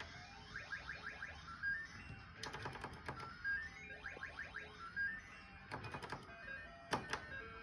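Electronic mahjong slot machine sound effects: quick rising runs of beeping tones over game music, with bursts of rapid clicking ticks.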